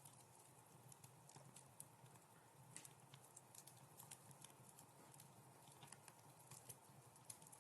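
Wood fire in a fireplace crackling faintly, with small irregular pops and snaps.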